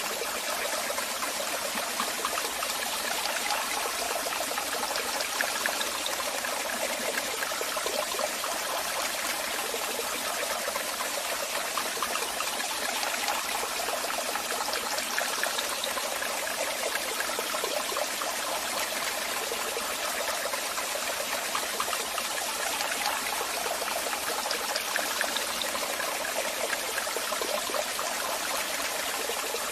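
Waterfall water falling and splashing in a steady rush, with no change throughout.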